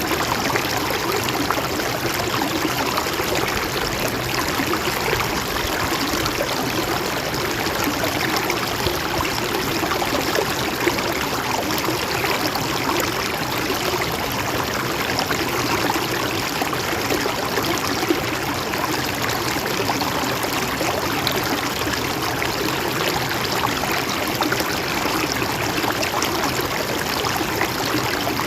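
Mountain stream flowing and trickling over rocks: a steady, even rush of water.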